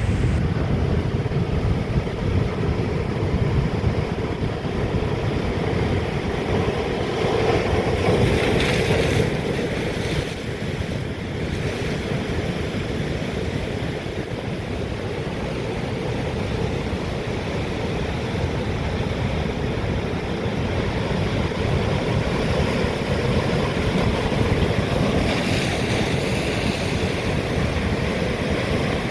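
Atlantic surf breaking on rocks in a continuous rushing roar, with wind buffeting the microphone. Louder washes of breaking water come about a third of the way in and again near the end.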